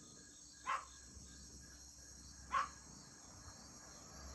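Steady, high-pitched chorus of night insects such as crickets. Over it come two short falling calls, about two seconds apart.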